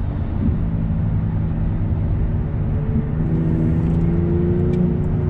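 Car engine and road rumble heard from inside a moving car. The engine pitch drops about half a second in, then holds and climbs gently from about three seconds in as the car pulls under load.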